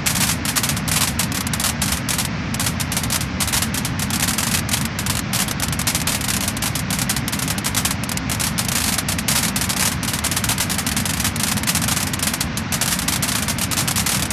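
Wood fire burning steadily, with a dense run of irregular crackles and pops over a constant low rumble.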